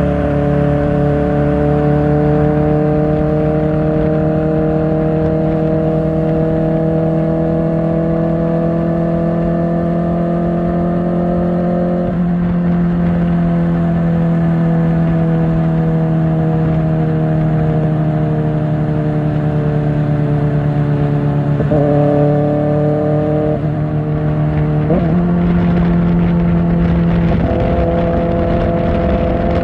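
Kawasaki Ninja ZX-4R's inline-four engine through an Akrapovic exhaust, running under steady throttle with its pitch slowly rising. The pitch drops sharply about twelve seconds in as it shifts up a gear, then steps up and down several more times in the last third with further gear changes.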